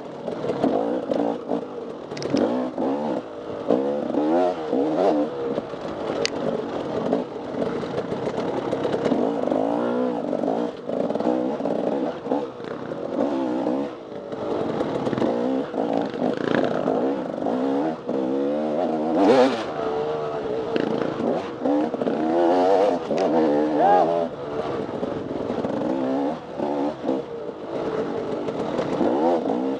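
Off-road dirt bike engine being ridden hard, its revs rising and falling again and again as the rider works the throttle, with occasional clatter and knocks.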